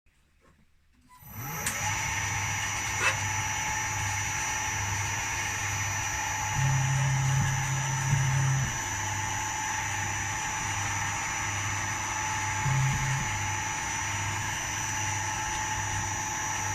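Homemade CNC milling machine running, starting about a second in: a steady high spindle whine over a low hum. A deeper drone comes and goes in stretches of a second or two.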